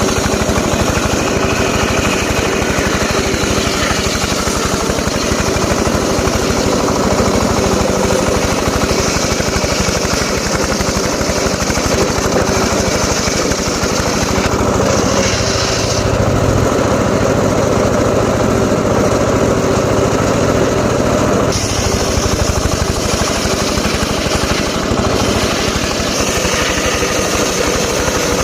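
A small engine runs steadily, driving a saw through teak wood. The higher cutting noise changes a few times as the load shifts.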